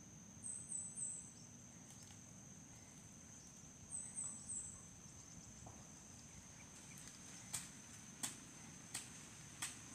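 Faint rural ambience: a steady high insect trill throughout. Over it come two runs of three short high chirps, and a few sharp clicks near the end.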